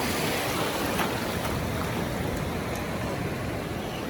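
Steady rush of ocean surf and wind, an even noise with no distinct events.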